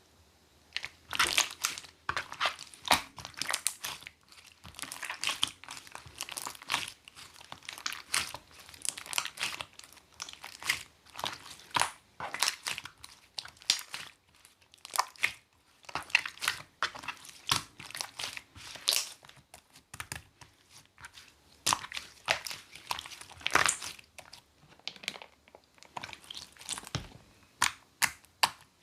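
Sky-blue slime mixed with cloud clay being squeezed, stretched and folded by hand, giving many sharp crackles and pops in quick, irregular runs.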